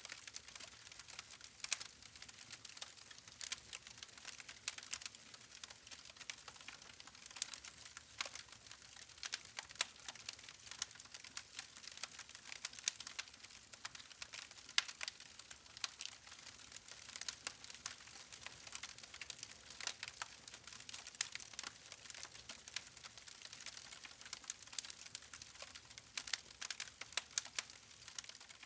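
Wood fire crackling: logs burning, with many small sharp pops and snaps over a faint hiss.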